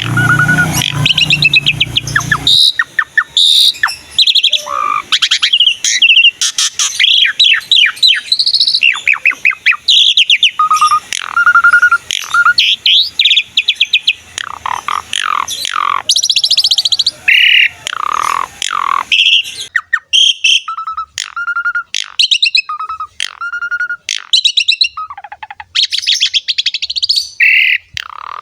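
Asian pied starling (jalak suren) singing in full, energetic song: a continuous string of short clear whistles mixed with fast chattering and harsh, buzzy notes. A low rumble runs underneath for the first couple of seconds.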